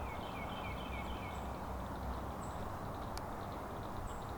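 A songbird singing a quick series of about six short, repeated down-slurred notes, followed by a few thin, high calls, over a steady background rush. There is a single sharp click about three seconds in.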